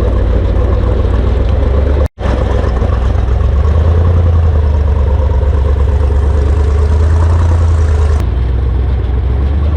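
An off-road rock-crawling buggy's engine running in a steady low drone, with a brief dropout about two seconds in. The drone gets somewhat stronger from about four to eight seconds in.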